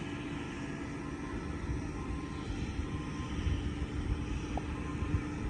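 Heavy truck engine running steadily at idle, a low rumble with a steady hum over it.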